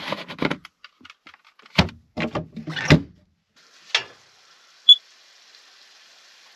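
Knocks and rattles of things being handled, like a cabinet or door opened and shut, several in the first three seconds and one more about four seconds in, then a single sharp high click, leaving a faint steady hiss.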